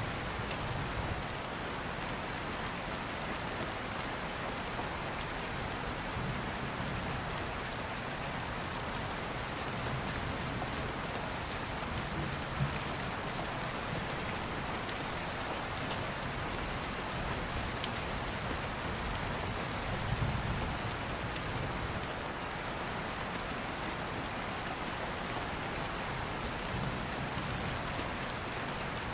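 Steady rain falling, with scattered sharp crackles from an open fire and a soft low rumble of distant thunder about two-thirds of the way through.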